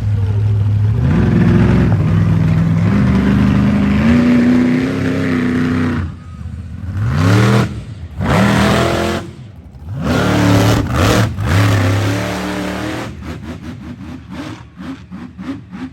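Monster truck engine, loud, held at a high steady pitch, then blipped sharply several times, each rev rising and dropping. Near the end it settles into a lumpy, pulsing idle.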